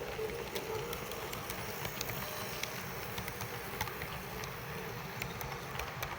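HO-scale model steam locomotive running on the layout track: a steady mechanical running noise with many irregular sharp clicks, and a motor hum that fades about a second in.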